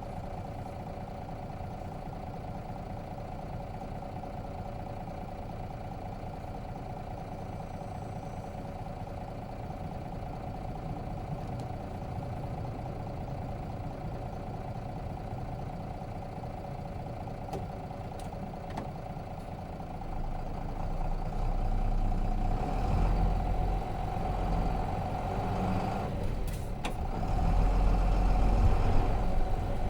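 Nissan Diesel FE6 six-cylinder diesel engine of a city bus idling steadily, heard from inside the bus. About two-thirds of the way in the engine grows louder and deeper as it pulls away under load, with a brief hiss near the end.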